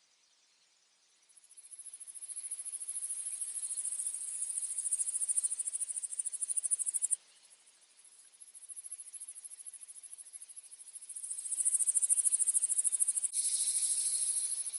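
Crickets trilling in a high, rapid, finely pulsed chorus. The sound starts about a second in, cuts off abruptly about seven seconds in, then returns and grows louder near the end.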